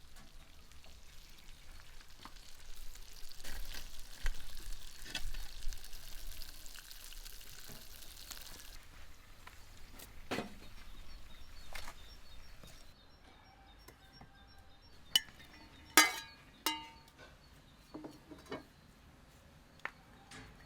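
Food sizzling as it fries, with scattered light clicks, fading after about nine seconds. Near the end come several sharp, ringing clinks.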